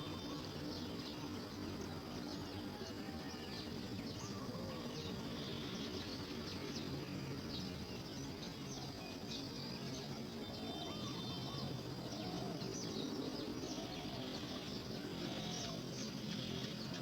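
Outdoor ambience of steady background noise with scattered faint bird chirps and short calls throughout.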